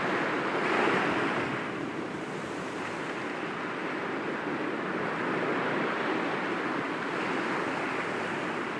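Sea waves breaking gently against rocks, with one louder break about a second in, then a steady wash of surf.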